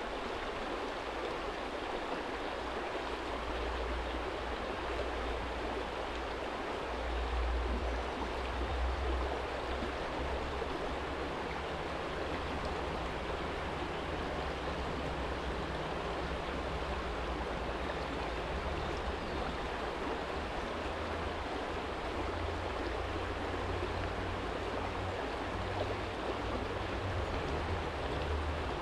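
Small stream flowing over a stony bed: a steady, even rush of water. A low rumble sits underneath, swelling now and then.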